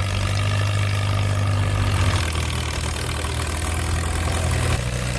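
Antique farm tractor engine idling steadily, its low note changing pitch abruptly twice.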